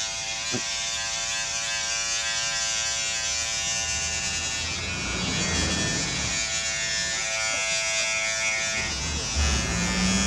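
Electric hair clippers running with a steady buzz while cutting hair. For a couple of seconds about halfway through, the buzz turns rougher, then steadies again.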